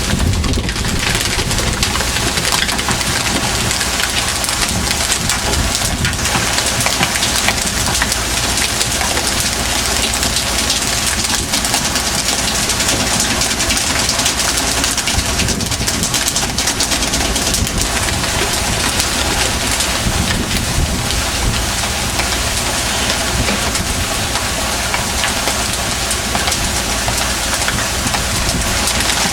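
Fishing boat's engine running steadily under a loud, even rushing noise.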